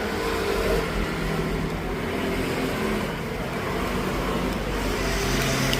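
Street traffic, with a motor vehicle's engine running close by over a steady road noise.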